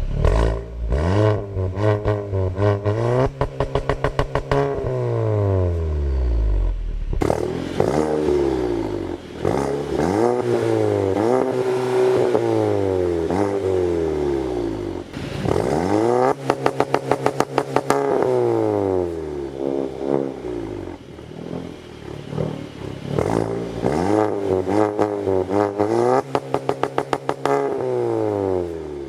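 A VW MK7 GTI's turbocharged 2.0-litre four-cylinder, with a catless downpipe, accelerating hard through the gears. Its pitch climbs and drops repeatedly at each shift and lift-off, and bursts of rapid crackling come several times.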